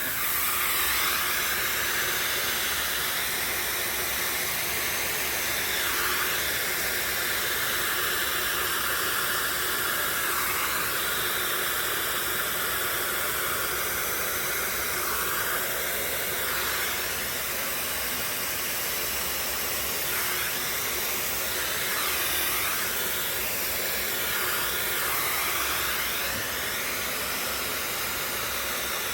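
Hair dryer blowing steadily, a loud even rush of air, used to blow wet acrylic pouring paint out into a bloom.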